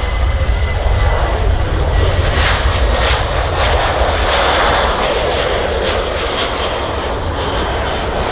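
A departing Ryanair jet airliner's engines at takeoff power: steady jet noise with a deep low rumble, swelling about two seconds in and easing a little after about five seconds.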